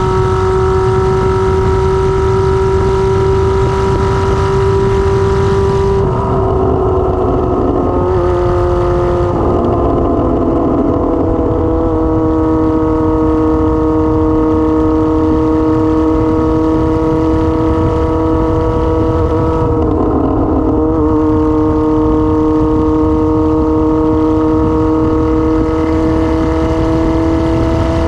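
Kawasaki ZR-7's air-cooled inline-four engine running under way with no exhaust muffler fitted. The engine note holds steady, breaks briefly and settles lower three times, about six, nine and twenty seconds in, as gears are changed, then rises slowly near the end.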